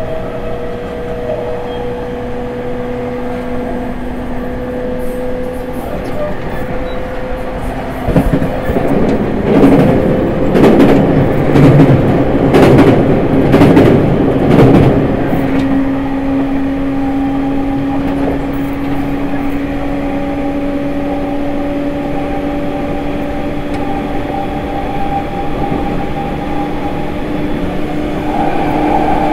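JR E231 series 1000 subseries commuter train running, heard at the gangway between cars: a steady whine from the traction motors on the refurbished later-type Hitachi IGBT-VVVF inverter, creeping slowly up in pitch. From about eight to fifteen seconds in, a loud run of rattling and wheel clatter over the track covers it.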